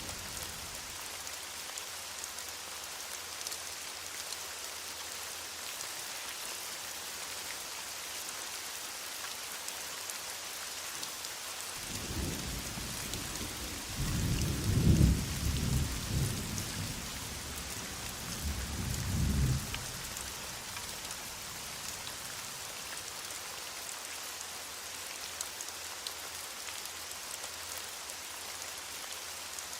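Heavy rain falling steadily. Partway through, a low rumble of distant thunder rolls in, swells twice and fades out.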